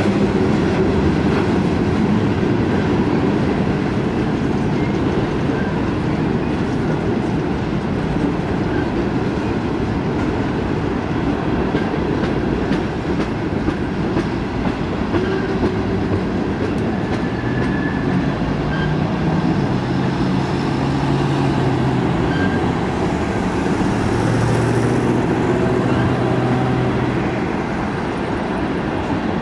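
Freight train cars rolling past: a steady rumble and clatter of steel wheels on the rails, continuing through the whole passage of flatcars, boxcars and tank cars.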